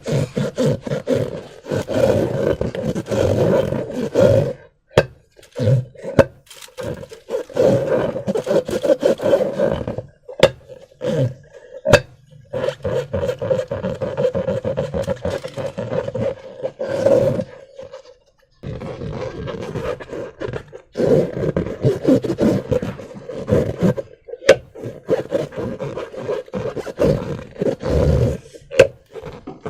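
Slime being squeezed and worked in rubber balloons, heard close up as a crackly squelching and rubbing with many sharp clicks. It comes in bursts with a few short pauses.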